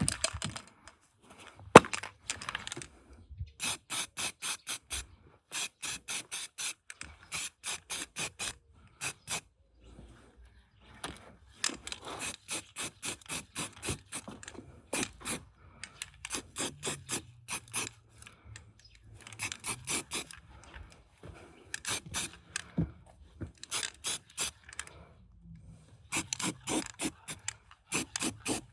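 Hand tool at work on a car: runs of rapid, even clicks, about six a second, in bursts of one to two seconds with short pauses between.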